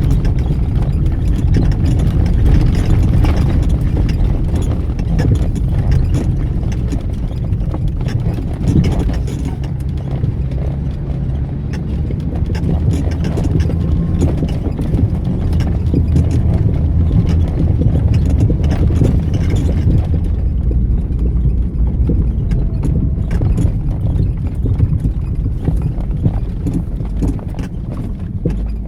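Cabin sound of an off-road 4x4 driving a rough dirt track: a low engine drone under constant irregular knocking and rattling as the vehicle jolts along.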